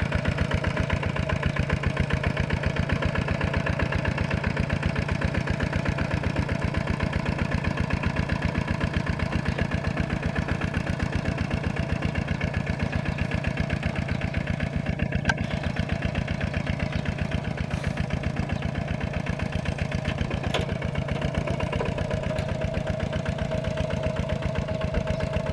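Tractor diesel engine running at a steady speed with a fast, even pulse.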